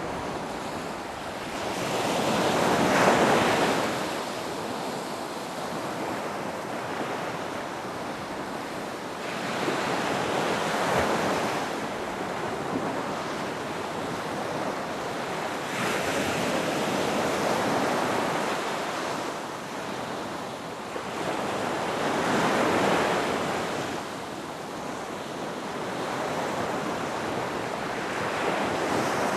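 Ocean surf breaking on a beach. The rush of water swells and falls back about every six seconds, five times over, with a steady hiss of surf between the waves.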